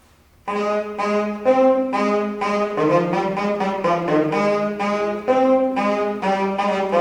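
Tenor saxophone section of a marching band playing its part of the school fight song alone, a detached line of separate notes in the low-middle range starting about half a second in.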